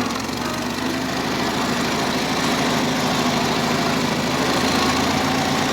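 International Harvester Cub tractor's four-cylinder engine running steadily as the tractor drives in first gear.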